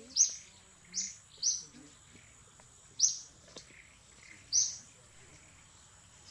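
A bird repeating a short, sharp, high chirp five times at uneven intervals, over a thin steady high tone.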